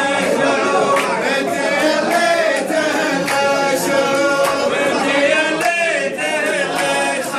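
A group of men chanting a razif in unison, many voices together, over a regular beat of sharp percussive strikes about twice a second.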